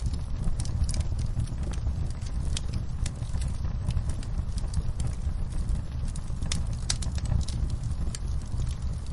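Wood fire crackling in a fireplace, with irregular sharp snaps and pops over a steady low rumble, and rain against the window.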